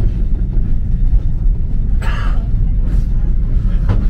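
Sagano sightseeing train carriage running along the track: a loud, steady low rumble of the wheels on the rails, heard from inside the car. A brief higher sound cuts in about two seconds in.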